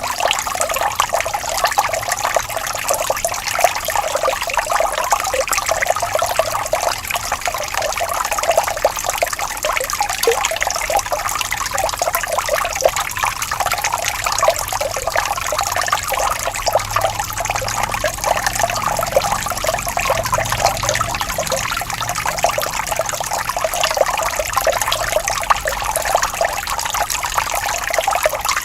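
Gently flowing water trickling and babbling steadily, like a small stream.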